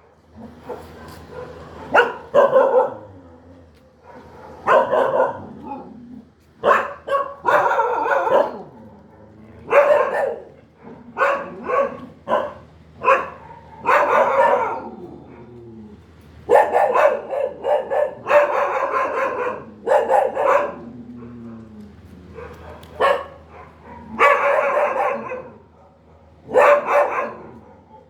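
Dog barking repeatedly in irregular bursts, with a few longer, drawn-out calls.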